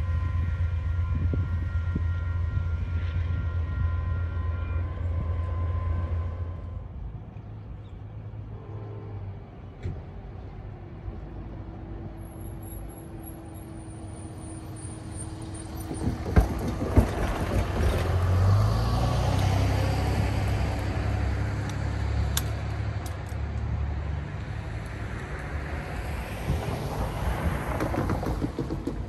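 Train noise at a grade crossing: a loud steady low rumble with a few steady tones that drops away about six seconds in, then a quieter stretch, and from about sixteen seconds a broad rumble of passing traffic builds, with a couple of sharp knocks.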